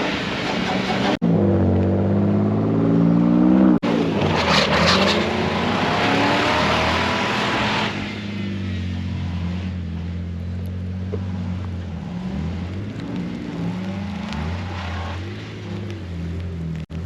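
Car engine revving and easing off, its pitch rising and falling, with a rushing hiss over the first half. The sound breaks off sharply a few times.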